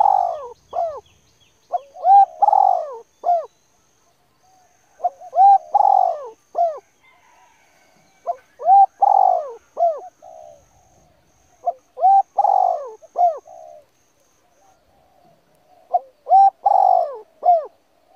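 A bird calling over and over in a three-note phrase, a short note, a longer one, then a short one, repeated about every three to four seconds.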